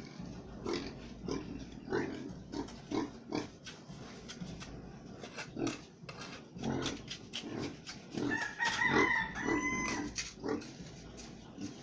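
Pigs grunting, with short knocks and scrapes scattered throughout, and a rooster crowing for about two seconds near the end.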